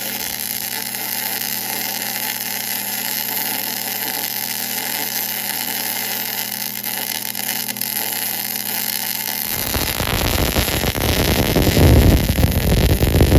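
Steady mechanical hum with hiss. About nine and a half seconds in it turns into a louder, rough noise with a low rumble.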